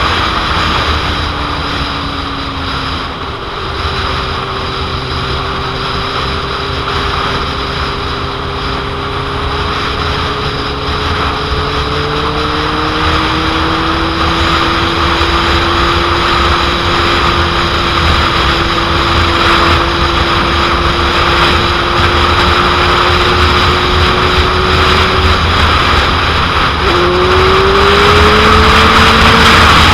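Suzuki GSX-R750 inline-four motorcycle engine under way in traffic, buried in heavy wind noise on the microphone. The engine note falls over the first few seconds, then climbs slowly as the bike picks up speed. A few seconds before the end it drops out briefly and comes back with a quick rise in pitch as the throttle is rolled on again.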